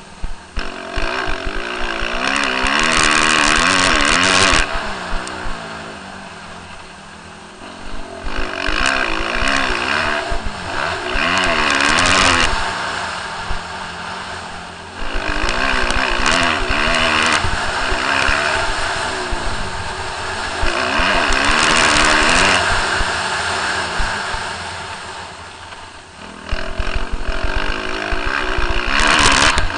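A Suzuki RM-Z250 motocross bike's single-cylinder engine revving hard on the throttle and easing off again and again, its pitch climbing and dropping through the gears, with loud high-revving runs about every five or six seconds.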